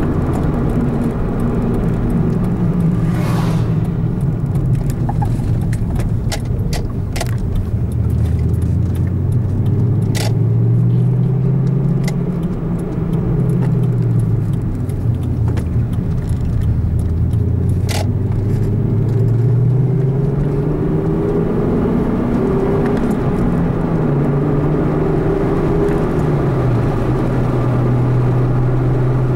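A car's engine with road noise, its note dropping as the car slows and then rising again as it accelerates, with a further step in pitch later as it changes gear. A few brief clicks sound along the way.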